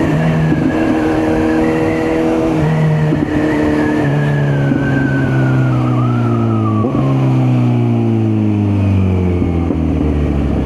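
Kawasaki Z900 inline-four motorcycle engine heard on the move, loud and close. Its revs step a few times with gear changes early on, then fall steadily through the second half as the bike slows.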